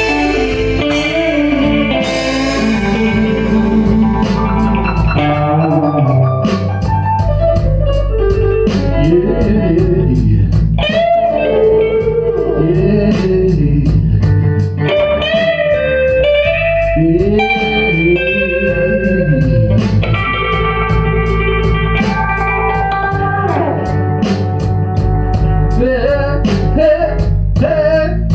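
Blues-rock band playing live: a lead electric guitar with bending notes over bass and drums, with cymbal strikes keeping an even beat.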